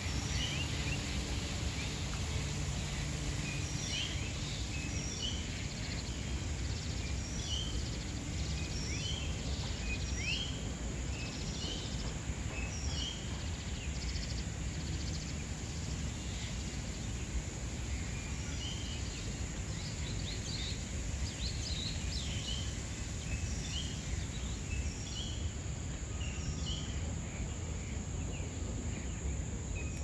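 Birds calling: many short chirps and whistles, some sliding in pitch, repeated irregularly over a steady low background rumble.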